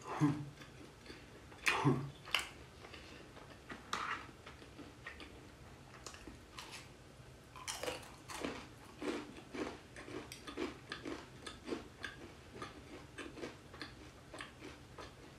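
A person chewing boneless fried chicken close to the microphone: irregular crunches and mouth clicks, settling from about eight seconds in into a steady chewing rhythm of about two chews a second.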